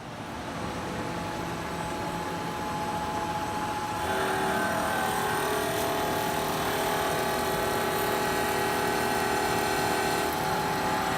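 CNC milling machine starting its program: a mechanical running noise builds over the first seconds, then from about four seconds in a steady whine of several tones holds at an even level.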